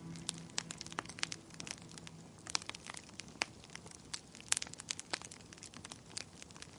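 Wood fire crackling, with irregular sharp pops and snaps at varying loudness.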